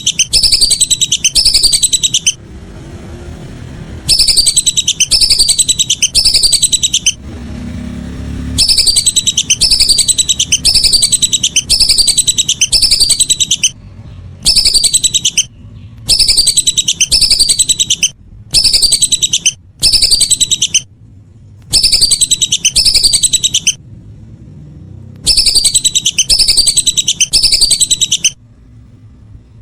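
Whistling duck (belibis) calls: rapid runs of high, falling whistled notes, several a second, in loud bouts of one to a few seconds. The bouts break off abruptly into short silences, as in an edited, looped call recording used as a lure.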